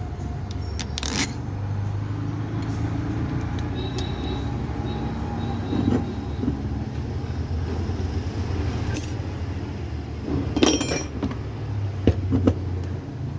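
Metal tools and parts clinking and knocking while being handled, a few sharp clinks about a second in, near nine seconds and again near the end, over a steady low hum.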